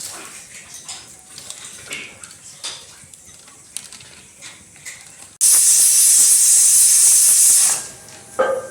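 Light clinking of kitchenware, then about five seconds in a sudden loud hiss that holds steady for a little over two seconds before fading out.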